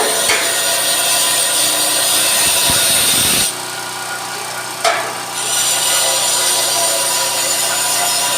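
Rain falling, a steady loud hiss that dips in level for a couple of seconds midway, with a single knock about five seconds in.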